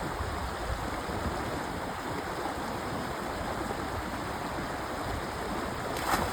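Stream water running steadily over rocks, with one brief sharper sound, a splash or knock, about six seconds in.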